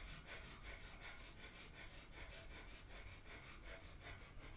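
Breath of fire: rapid, evenly paced, forceful puffs of breath out through the nose, a faint steady rhythm of short breaths.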